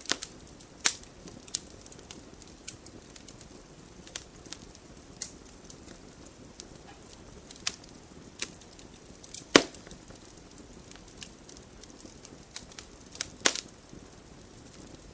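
Wood fire crackling in a fireplace: irregular sharp pops and snaps over a low steady hiss, with the loudest pops about two-thirds of the way in and near the end.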